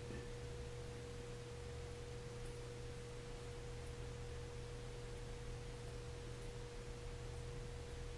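Faint steady electrical hum with a constant mid-pitched whine tone, unchanging throughout: background noise of the recording setup, with no other sound standing out.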